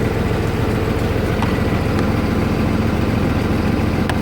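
Vehicle engine idling steadily, a constant low hum, with a few faint ticks over it.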